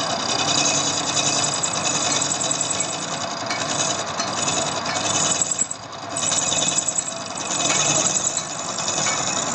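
Metal lathe running in a machine shop, a steady mechanical whirr and rattle that dips briefly about six seconds in.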